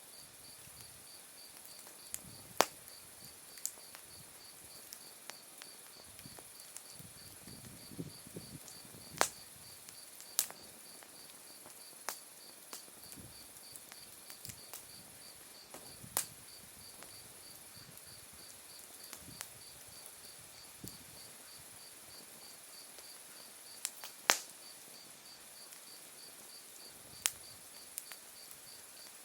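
Autumn insects singing steadily, a continuous high trill together with a cricket's evenly pulsed chirp, while an open wood fire gives sharp crackling pops every second or few.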